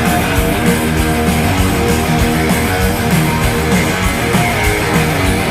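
Loud hard rock music: strummed electric guitar over a steady driving beat.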